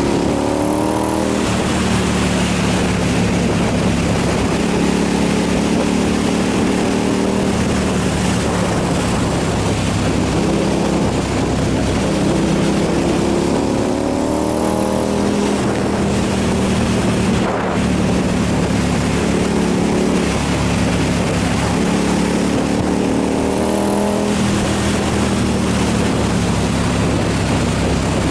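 KTM 990 SMR's V-twin engine pulling hard, revving up and dropping back at each gear change several times, over a steady rush of wind and road noise.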